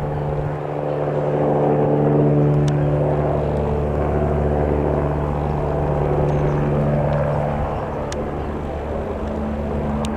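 Twin-turbine AgustaWestland AW109SP helicopter running with a steady, even pitch, its level swelling slightly about two seconds in.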